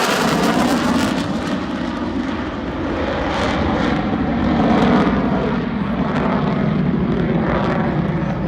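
F-35 fighter jet's single jet engine passing at high power: loud, steady jet noise, rough and crackling throughout.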